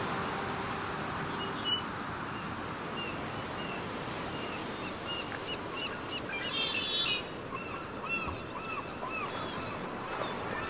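Small birds chirping in short repeated notes over a steady wash of outdoor noise, with a brief run of quicker, higher notes about two-thirds of the way through.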